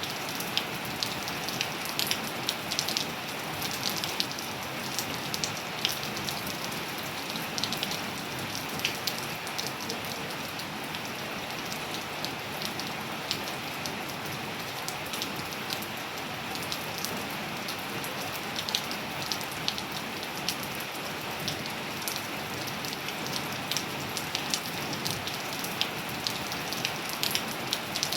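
Steady rain falling on surfaces, with a continuous hiss and many sharp individual drops ticking and pattering throughout.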